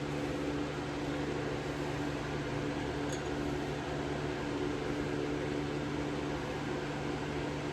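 Steady machine hum from a running motor or appliance: an even low drone made of two constant tones, under a light hiss, with no knocks or tool strikes.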